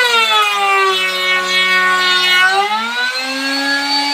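Electric drill motor whining steadily while it works in wood, its pitch sagging and recovering as the load on the bit changes.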